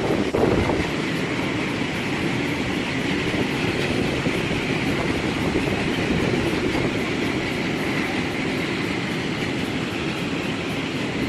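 Freight train wagons rolling past on the rails, a steady loud rumble of wheels on track, with a brief louder knock right at the start.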